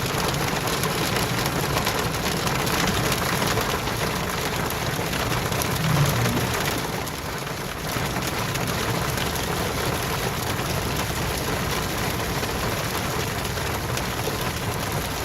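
A heavy downpour of ice, possibly hail, falling steadily as a dense hiss. There is a brief low swell about six seconds in and a short easing just after.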